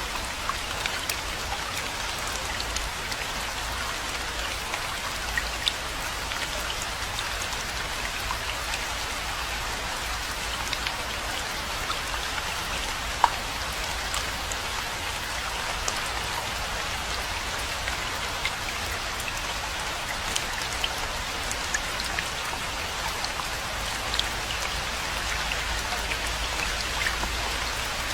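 Steady rainfall, an even hiss with many distinct drop hits heard as sharp ticks; one drop lands noticeably louder about halfway through.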